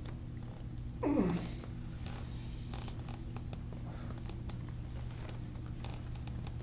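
A short groan, falling in pitch, from a person about a second in, as hands press and rub through stiff back muscles; faint rustling of hands on skin and clothing goes on around it.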